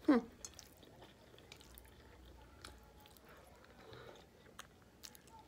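Quiet close-up chewing of soft pasta and sausage, with scattered small wet mouth clicks.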